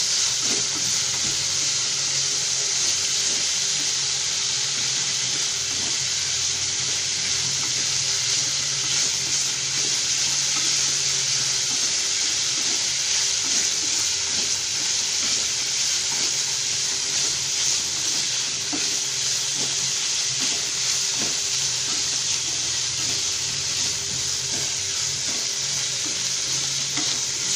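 Diced potatoes and green peas sizzling steadily in hot oil in a frying pan as they are sautéed, stirred with a wooden spatula that knocks lightly against the pan now and then.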